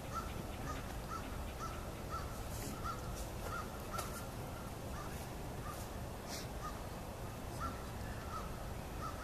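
A bird calling over and over in short, rising-and-falling notes, about two a second, over a steady low outdoor background noise.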